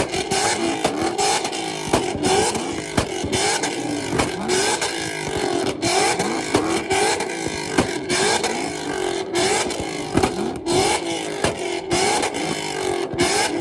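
A street car's engine revved hard again and again in quick blips, its pitch rising and falling each time, with sharp cracks from the exhaust.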